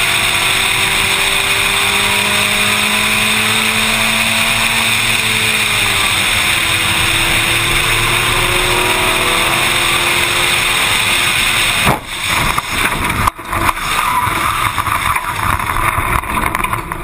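Car engines and road noise, with engine pitch slowly rising and falling. About twelve seconds in the sound breaks off abruptly twice and gives way to a different, choppier engine sound.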